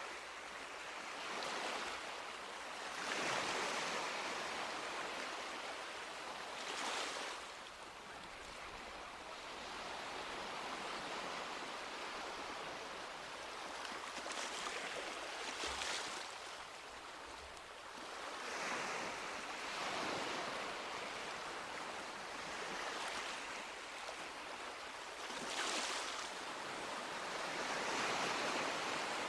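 Gentle sea waves washing onto a beach, a steady hiss of surf with a louder wash every few seconds as each wave breaks and spreads.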